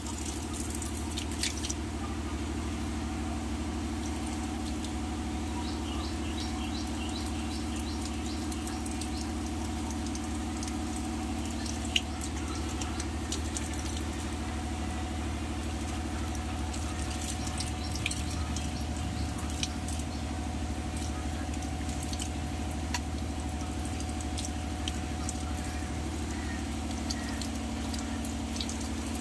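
A steady low machine hum, with scattered small ticks and clicks over it and one sharper click about twelve seconds in.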